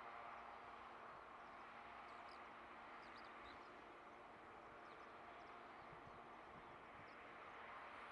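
Faint, steady hum of a distant diesel freight locomotive hauling a long train of wagons, with a few faint bird chirps.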